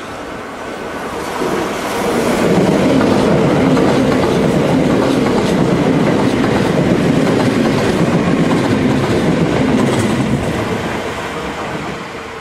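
A Kintetsu 21000 series limited express train runs through a station at speed without stopping, its wheels clacking over the rail joints. It grows loud about two seconds in and fades near the end.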